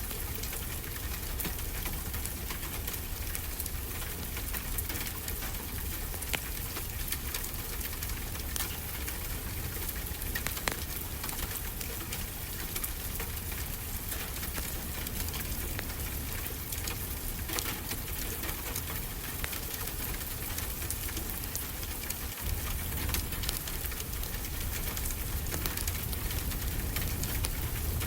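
Steady rain, with a wood fire crackling and popping in scattered sharp clicks.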